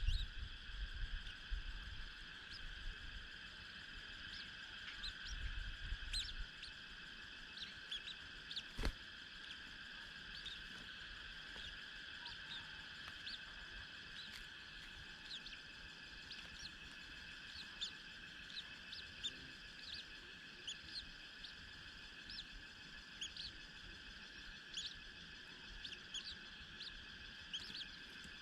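Faint, short, high chirps from small birds, scattered throughout over a steady high-pitched background hum, with a single sharp click about nine seconds in.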